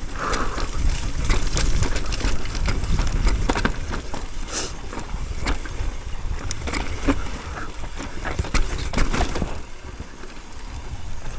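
Wind rumble on the microphone and a mountain bike rattling and clicking over rough trail, with irregular sharp knocks throughout.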